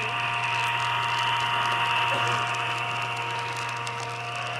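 Lionel O-gauge model train running on the layout's track: a steady motor hum and whine with faint clicking from the wheels and track. It grows a little louder about two seconds in, then eases off.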